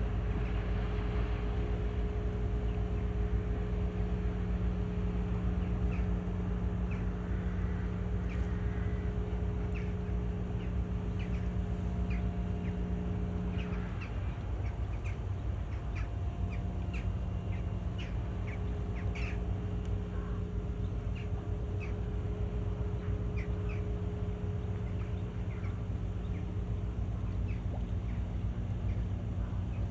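Steady low drone of a cargo ship's engines, with many short bird calls scattered over it through the middle.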